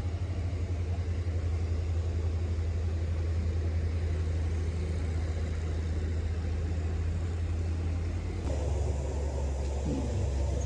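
A large vehicle's engine running steadily nearby, a low rumble with an even pulsing beat. The sound changes abruptly about eight and a half seconds in, as at a cut to another take.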